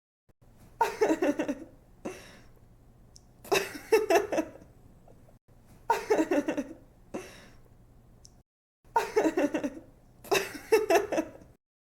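A girl laughing: five bursts of quick giggling pulses, with softer breathy tails between the bursts.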